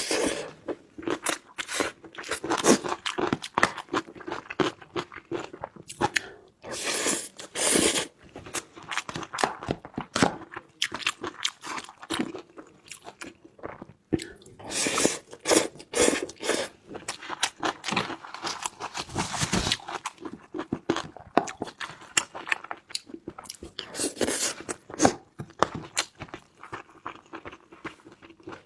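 Close-miked eating: a person chewing and biting food, with many short crunches and wet clicks of the mouth in an irregular run.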